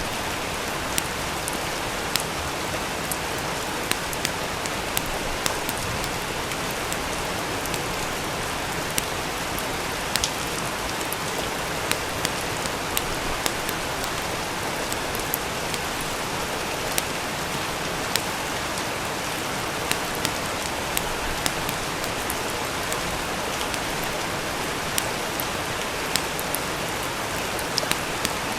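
Steady rain pattering, with irregular sharp crackles and pops from a wood fire in a fireplace.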